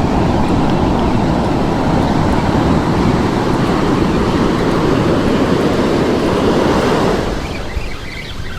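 Ocean surf: a big wave breaking and rushing up the beach, a loud steady roar of water that dies away about seven seconds in.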